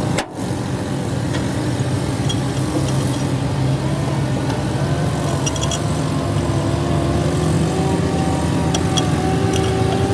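Tractor engine running steadily, with a faint whine that creeps up in pitch from about halfway through and a few light clicks.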